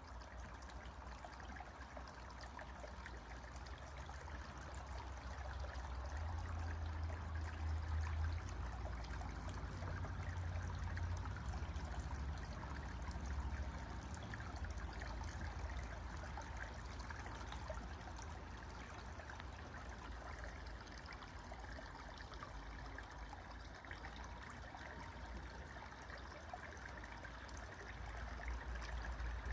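Water of an underground stream welling out at the surface of the ground, trickling and babbling steadily, with a low rumble underneath that swells and fades.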